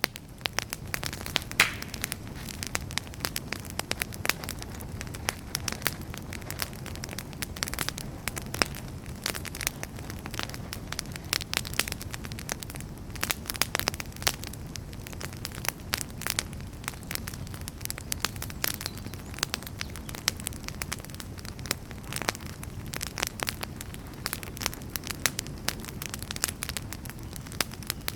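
Wood fire burning in a fireplace: a steady low rumble of flames under frequent sharp crackles and pops from the burning logs.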